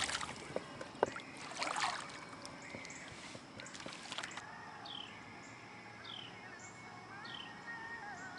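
Light water splashes and knocks of handling at the kayak in the first two seconds, then a bird calling a short falling high note about once a second.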